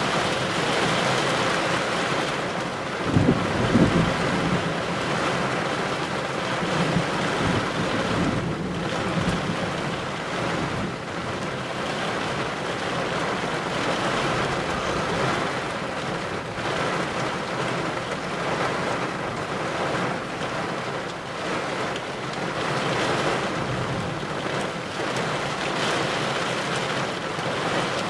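Thunderstorm wind and rain rushing steadily, heard from inside a car with a window cracked open. A short low rumble comes about three seconds in.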